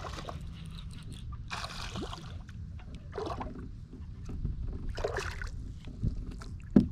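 Water splashing in several short bursts as a hooked largemouth bass is fought at the surface beside a kayak, over a steady low rumble.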